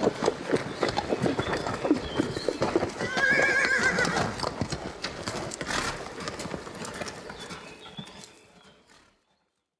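Horse hooves clip-clopping, with one whinny about three seconds in. The sound fades away and stops near the end.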